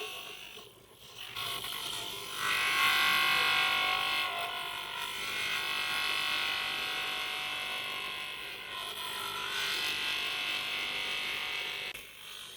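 A small handheld electric motor tool running with a steady whine. It stops briefly about a second in, runs louder from about two and a half seconds, and winds down near the end.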